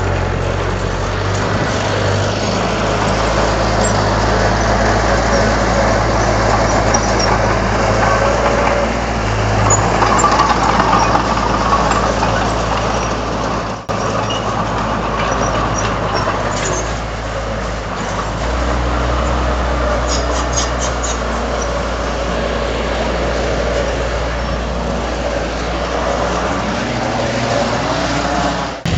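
Heavy diesel earthmoving machinery running steadily under load, with a brief cut-out about halfway through and a change in engine tone a few seconds later.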